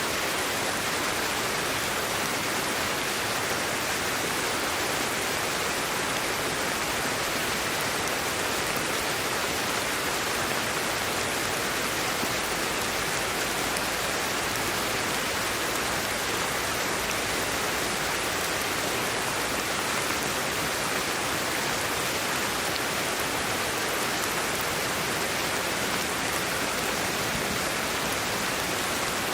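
Steady white-type noise: an even hiss with no change in level, weighted toward the upper-middle range and thin in the bass.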